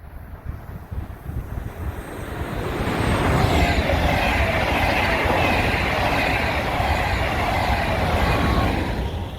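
A train passing on the line at speed. The wheel and rail noise swells over the first few seconds, stays loud for about six seconds, then starts to fade near the end.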